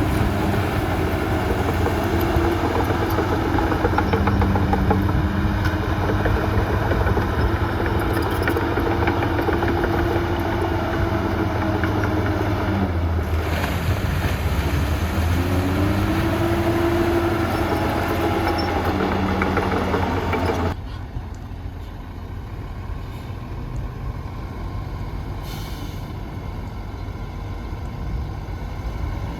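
Diesel engine of heavy earthmoving machinery running hard, its pitch rising and falling as it works. About two-thirds of the way through the sound cuts abruptly to a quieter, steadier engine.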